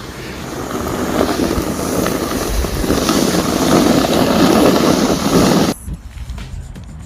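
A loud, even rushing noise that builds steadily for about six seconds, then cuts off suddenly.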